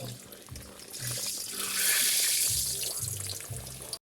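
Water running from a kitchen tap, a smooth hiss that swells in about a second in and fades away over the next two and a half seconds.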